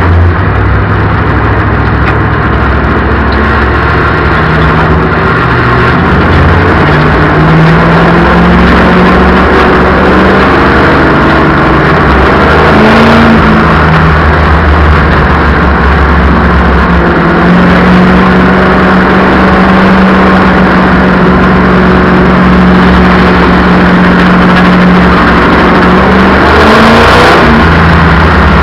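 Race car engines running loud at a speedway oval, the engine pitch climbing and dropping repeatedly as the cars accelerate and lift through the laps.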